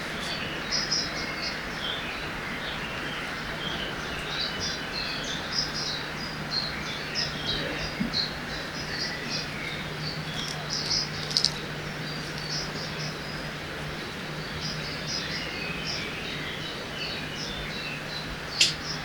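Forest ambience by a river: many small birds chirping and calling in quick, short notes over a steady rush of flowing water. A sharp tick stands out about midway and another near the end.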